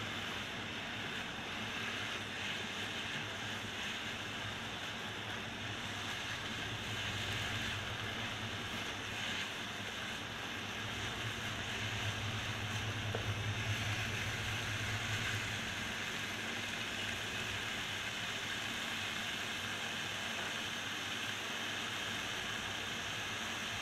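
Minced meat and ground spices frying in oil in a non-stick wok, a steady sizzle while it is stirred with a spatula: the keema being dry-fried (bhuna) with its masala. A low hum swells for a few seconds in the middle.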